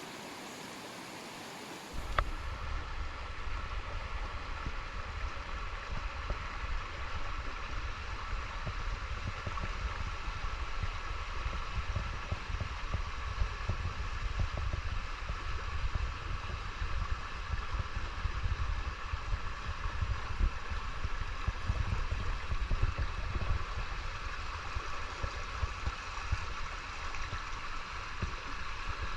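River water flowing and gurgling, a dense rushing noise with a deep rumble underneath. About two seconds in, a steady, even hiss cuts off abruptly and the louder river sound takes over.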